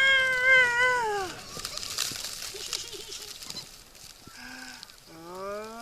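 A person's long, high-pitched squeal, held about a second and a half and falling off at the end, from riders on a moving sled train. Between calls comes the hiss and scrape of the sleds sliding over snow, and near the end a voice starts a long rising "whoa".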